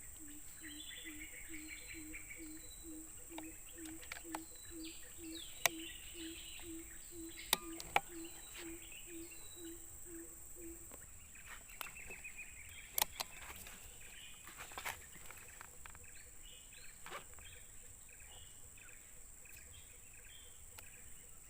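A bird repeats a low hooting note about twice a second for some eleven seconds, then stops. Small birds chirp over it, and a few sharp clicks sound, the loudest about six and eight seconds in and again about thirteen seconds in.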